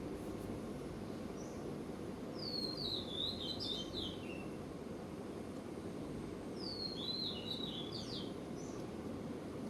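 A songbird singing two short, quick warbling phrases about four seconds apart, each opening with a falling note, over a steady low background rumble.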